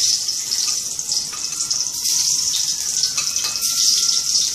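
Garlic sizzling in hot cooking oil in a pan, a loud steady hiss just after it has gone in.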